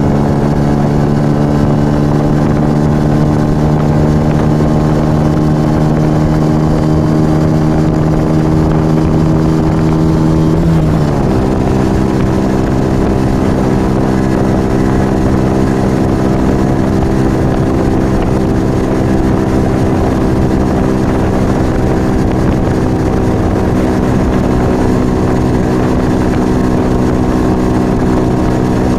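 Yamaha XV125 Virago's small air-cooled V-twin running under way through a Turbo Kit aftermarket exhaust. The engine note holds steady, drops sharply in pitch about eleven seconds in, then holds steady again at the lower note.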